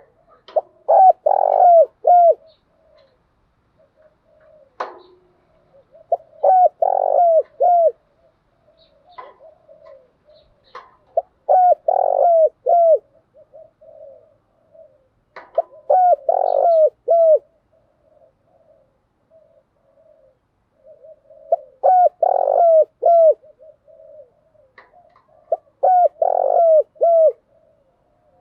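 Spotted dove cooing: six loud phrases of a few notes each, one roughly every four to five seconds, with soft low cooing running between them.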